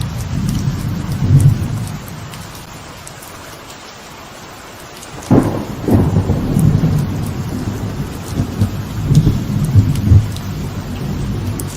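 Light rain falling on a veranda with thunder. A low rumble dies down into a lull of steady rain, then a sharp thunderclap about five seconds in, a second crack just after, and rolling rumbles through the rest.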